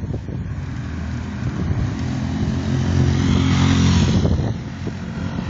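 A motor vehicle passing close by on the street: its engine hum and tyre rush build to a peak about four seconds in, then fade.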